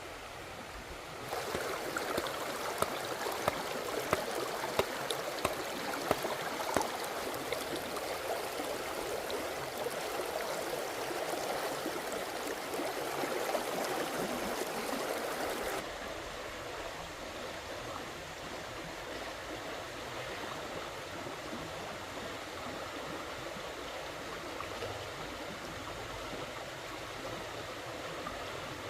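Running stream water, a steady rushing flow. It turns louder about a second in, with a run of sharp ticks over the next few seconds, and settles to a softer steady flow near the middle.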